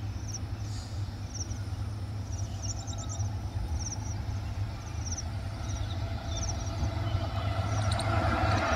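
Low, steady rumble of a train hauled by twin WAG-5 electric locomotives approaching from a distance, growing louder near the end. Short clusters of high chirps sound on and off over it.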